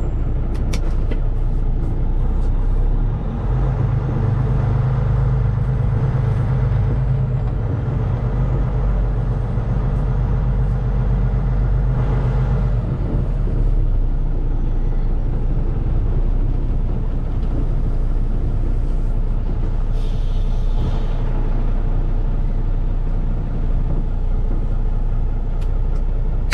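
Semi truck's diesel engine running, heard as a steady low drone that grows heavier a few seconds in and eases back about ten seconds later. A short hiss about twenty seconds in.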